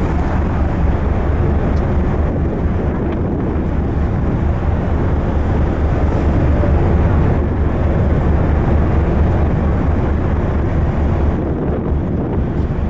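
Steady low rumble aboard the drift-ice icebreaker Aurora: the ship's engines running under way, with wind buffeting the microphone.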